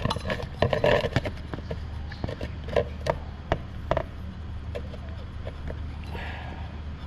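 Sharp metallic clicks and taps of a wrench working a scooter's engine drain plug loose, irregular and denser in the first couple of seconds, with a short scrape about six seconds in.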